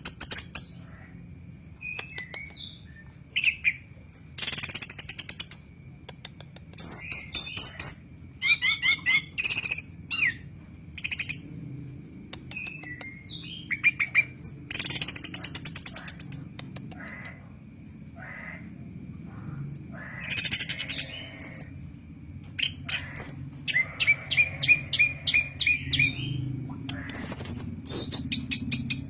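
Chestnut-capped thrush (anis kembang) singing in loud bursts of rapid high trills and rattling phrases, separated by short pauses.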